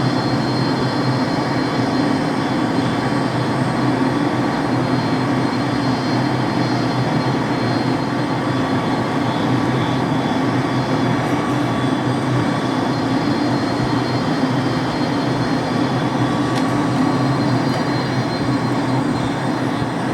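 McDonnell Douglas DC-10 jet engines running at steady power during takeoff: an unbroken, loud rushing rumble with thin, high whining tones over it.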